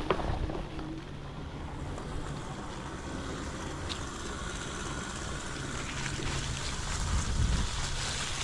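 Wind rushing over the microphone and rolling rumble while riding an electric bike, with a faint steady low hum that comes and goes.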